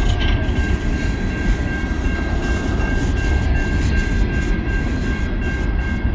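Norfolk Southern coal train's cars rolling past close by: a loud, steady rumble of wheels on rail with a thin, steady high whine running over it.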